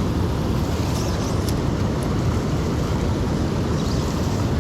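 Steady rushing of a river's current around a wading angler, an even noise at a constant level.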